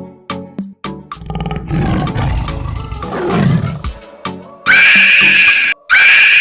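A tiger roar, most likely an added sound effect, rough and low, lasting about two and a half seconds over a percussive music track. Near the end a loud, high, steady sound comes in, repeated in long stretches with short breaks.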